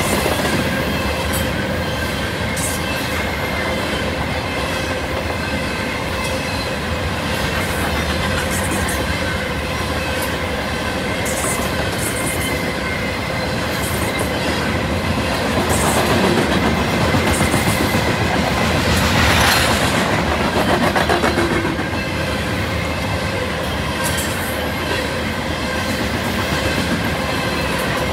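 Loaded covered hopper cars of a freight train rolling past close by: a steady rumble of steel wheels on rail, with irregular clicks and a faint steady wheel squeal running through it.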